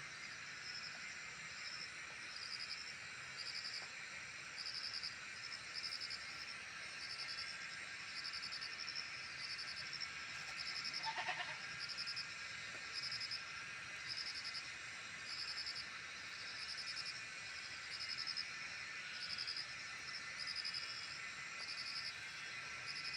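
Insects calling: a high, rapidly pulsed chirp repeating about once a second over a steady high drone, with one short animal call about eleven seconds in.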